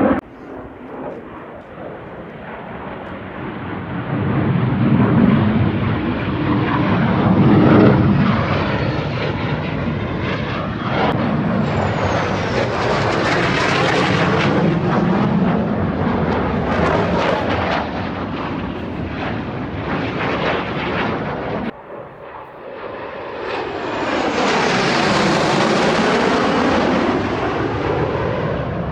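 Jet aircraft making low passes overhead, engine noise swelling and fading with sweeping shifts in tone as they go by. The sound breaks off abruptly about 22 seconds in, then another pass swells up.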